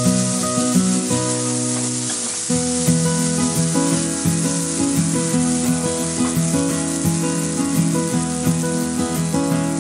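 Onion-tomato masala sizzling in hot oil in a nonstick frying pan as a spatula stirs it, with background music playing over it.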